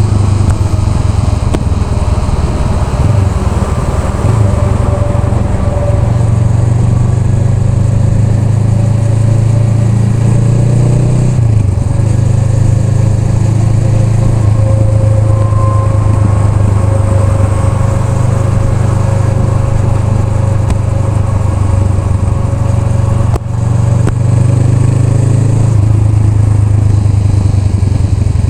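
Honda Rebel 500's parallel-twin engine running steadily on the move, with a brief drop in level about 23 seconds in.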